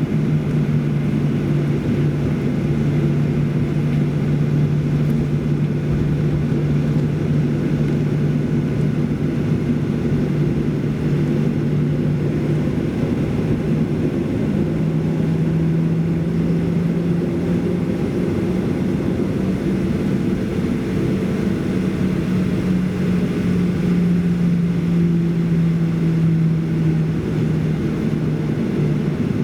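Steady cabin drone of a Boeing 737-800's CFM56 jet engines, with a strong low hum that shifts up slightly in pitch about halfway through and back down near the end.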